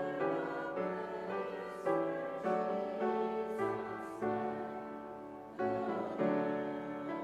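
Piano playing slow chords, each struck chord fading until the next one.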